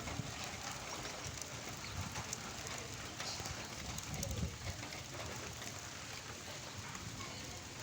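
Heavy rain falling steadily, an even hiss with an irregular low rumble underneath.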